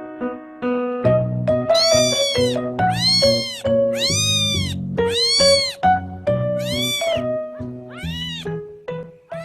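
A cat meowing six times in a row, each long meow rising then falling in pitch, over background music.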